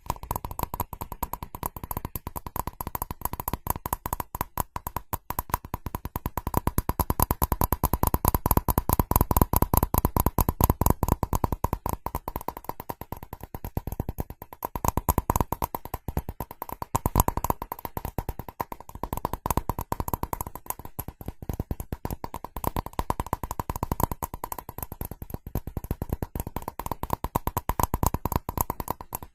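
Fast tapping on a ceramic object: a dense, rapid run of hard little taps with a steady ringing tone under them, growing louder for a few seconds in the first half.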